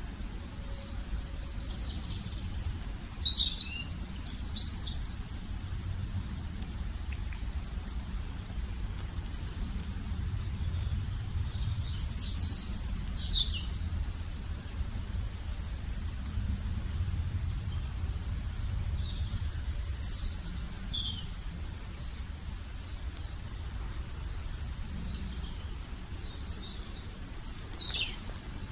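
Songbirds chirping and singing in short bursts of quick, high notes, loudest about four, twelve and twenty seconds in, over a low steady rumble.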